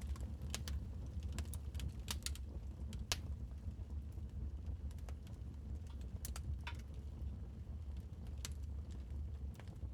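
Wood fire crackling in a fireplace: irregular sharp pops and snaps over a steady low rumble of the burning fire, with one louder pop about three seconds in.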